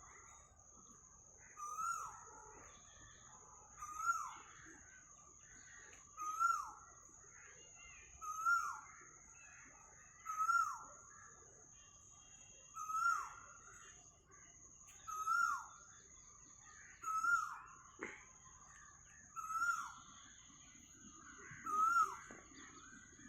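Cuckoo calling one short note over and over, about once every two seconds, each note rising briefly and then dropping in pitch. A faint steady high-pitched whine runs behind the calls.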